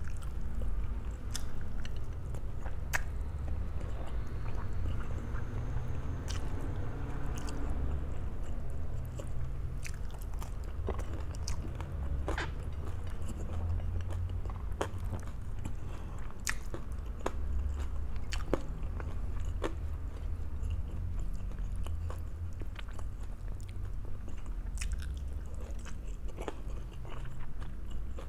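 A person chewing food close to the microphone: steady munching with scattered short, sharp crunches and clicks.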